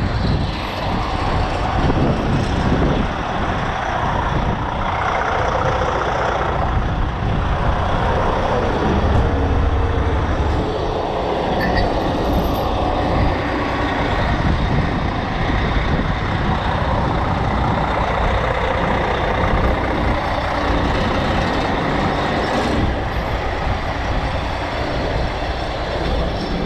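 Heavy tow truck's diesel engine running steadily.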